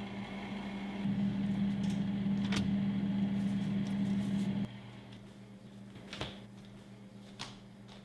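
A steady low electrical hum, louder for a few seconds and then dropping back, with a few sharp clicks or knocks.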